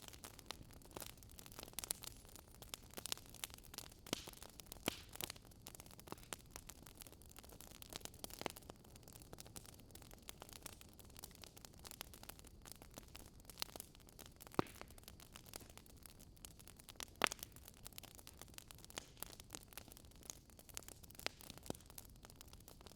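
Faint crackling of a wood fire: irregular sharp pops and snaps of burning logs over a low steady hiss.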